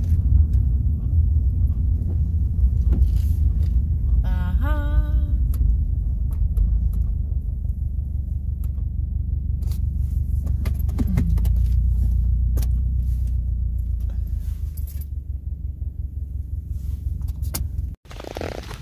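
Car driving: a steady low engine and road rumble with light rattling and clicking. A brief wavering tone sounds about four seconds in.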